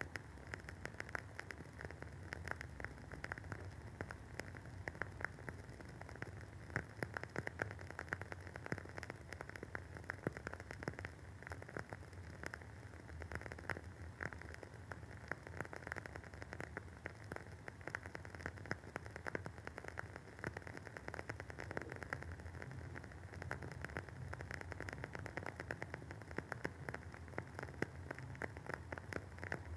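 WoodWick candle's wooden wick crackling as it burns: a dense, irregular patter of small pops and ticks, like light rain, over a faint low hum.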